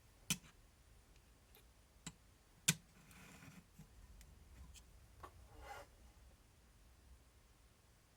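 Small parts being handled on a workbench: three sharp clicks and taps in the first few seconds, a few fainter ticks, and two brief rustles.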